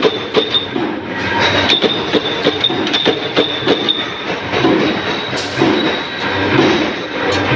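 Mechanical punch press stamping wing-shaped washers from 2.3 mm thick stock. It strikes in a fast, even rhythm of about three knocks a second, then runs on as a denser clatter over a steady high whine.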